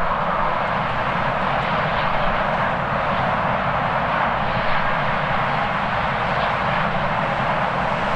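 Jet airliner's engines making a steady roar, with strong gusty wind rumbling on the microphone underneath.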